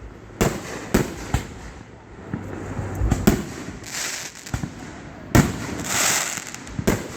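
Aerial fireworks going off close by: a series of sharp bangs, the loudest about five seconds in, followed by a spell of loud crackling from crackle shells.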